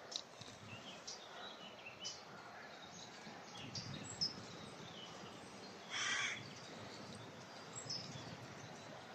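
Woodland birds calling: scattered short chirps, and one harsh, rasping call about six seconds in. Wind rumbles on the microphone underneath.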